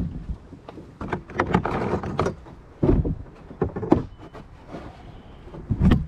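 Irregular knocks, thumps and rustling from handling, with several sharp bumps spaced unevenly.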